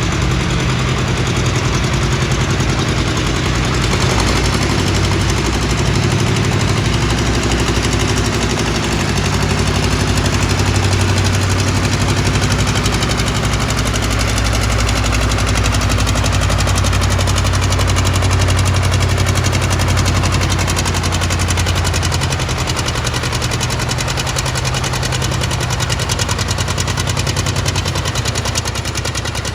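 Antique tractor engine running hard under full load while pulling a weighted sled, with a rapid, heavy exhaust beat; it eases off somewhat near the end.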